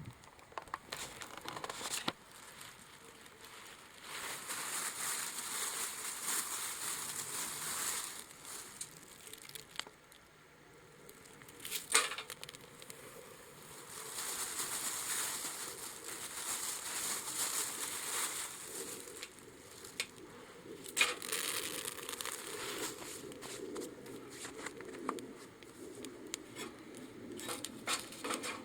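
Small wood fire burning in a steel can stove, crackling and rustling unevenly with stretches of hiss, and two sharp pops.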